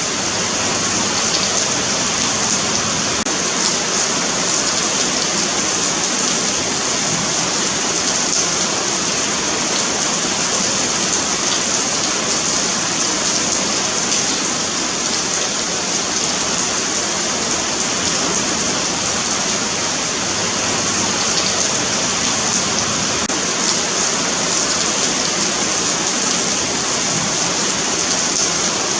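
Steady rain falling on a pavement, a constant even hiss with faint patter of drops.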